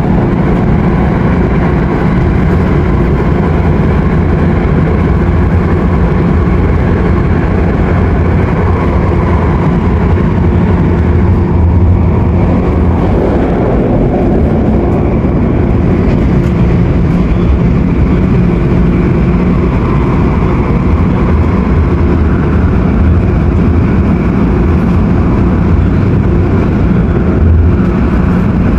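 Inside the passenger cabin of an MTR Airport Express CAF train running at speed: a loud, steady rumble of wheels on rail with a low motor hum, along with the noisy air conditioning.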